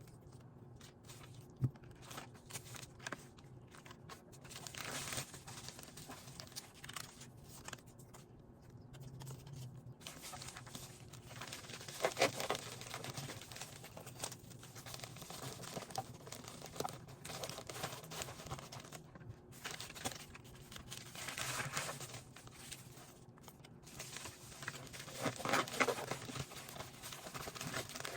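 Paper and plastic being handled: irregular crinkling and tearing rustles, louder about 12 seconds in and again near the end, over a faint steady hum.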